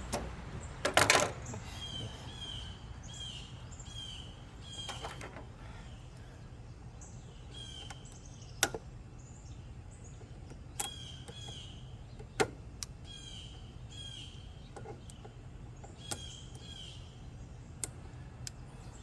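Birds chirping: one short call repeated over and over, with other higher chirps. Several sharp clicks and knocks are scattered among them.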